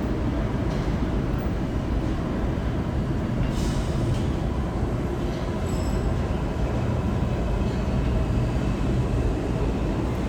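R62A subway train running on the rails with a steady low rumble, and a brief high hiss about three and a half seconds in.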